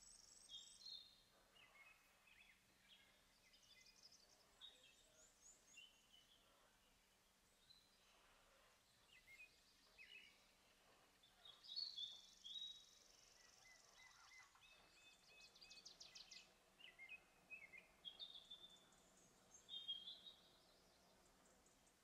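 Faint, quiet lakeside ambience with scattered short bird calls and trills throughout, loudest about twelve seconds in and again near twenty seconds, and a held high-pitched buzz at the start and again around twelve seconds.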